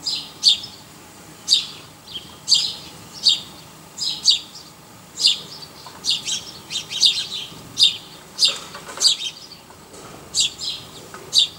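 Birds chirping: short, high chirps repeated irregularly, a little under two a second.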